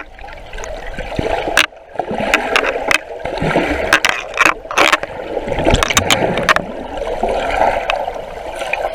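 Water splashing and gurgling close around a swimmer's camera, with many short sharp splashes at irregular moments.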